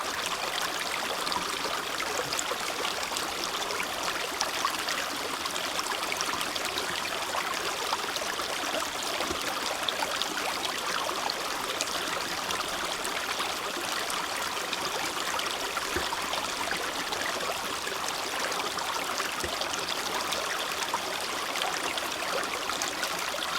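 Small creek flowing and trickling steadily over stones, a continuous babble of water with fine splashing.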